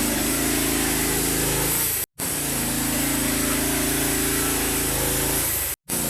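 Small gasoline engine of a portable log mill running steadily under load while sawing lengthwise through a log. The sound cuts out abruptly twice and comes straight back.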